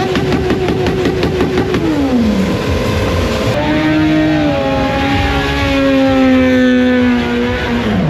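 Motorcycle engine held at high revs, which drop away about two seconds in. It is revved and held high again from about halfway through, then falls off near the end.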